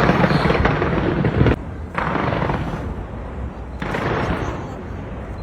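Fireworks bursting: a dense run of bangs and crackle that breaks off about a second and a half in, then two more sudden bursts, each trailing off in crackle, a couple of seconds apart.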